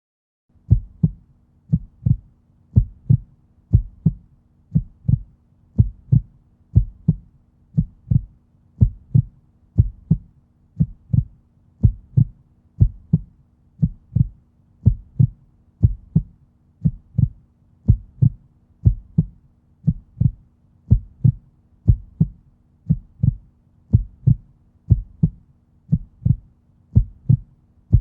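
Heartbeat sound effect: slow, even lub-dub thumps about once a second over a faint steady low hum.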